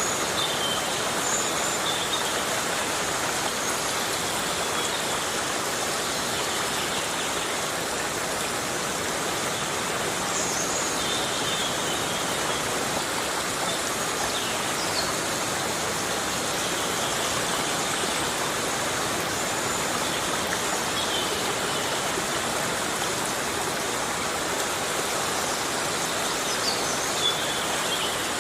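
Heavy rain falling steadily on a rainforest canopy, an even rushing hiss. A few faint high calls rise and fall through it now and then.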